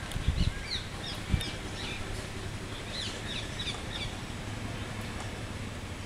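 A small bird chirping: two runs of quick, high, downward-sliding chirps, one just after the start and one around three seconds in, over a steady outdoor hiss. A few low thumps come in the first second and a half.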